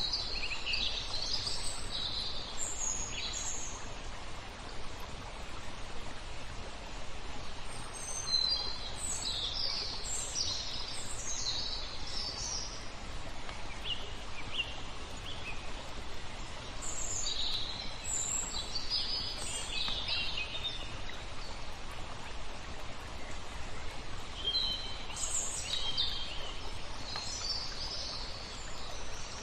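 Steady flowing water with small birds chirping over it in four spells of quick high chirps.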